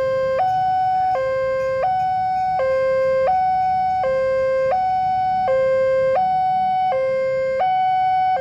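Electronic level-crossing warning alarm sounding its two alternating tones, high and low, each held about three quarters of a second and repeating evenly. A low rumble lies underneath.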